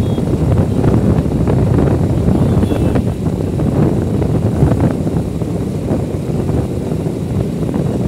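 Wind buffeting a microphone over a low rumble while riding a motorbike. The noise is loud and steady, with no clear engine note standing out.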